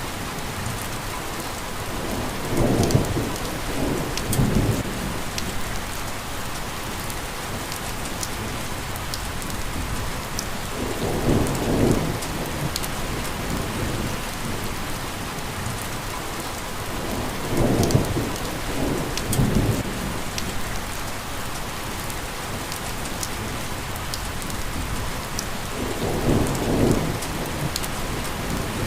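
Steady rain falling on a surface, with fine sharp drop ticks throughout. Four low rumbles of a couple of seconds each swell up and fade, about every seven to eight seconds.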